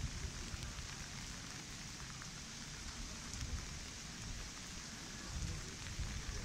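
Steady rain falling, a hiss of rain on the wet platform and tracks, with a few low bumps near the end.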